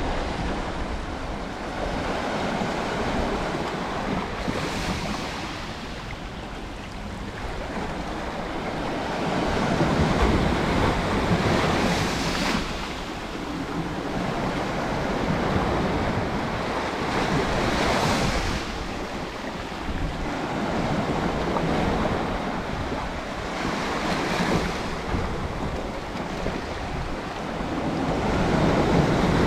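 Sea waves breaking and washing on the shore, a steady rush of surf that swells with a new breaker about every six seconds.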